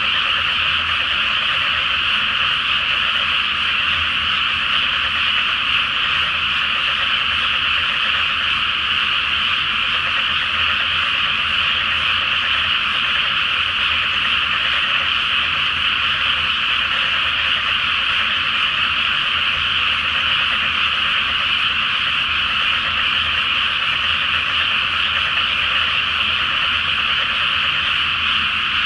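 A large chorus of many frogs calling together: a dense, steady wall of croaking with no pauses.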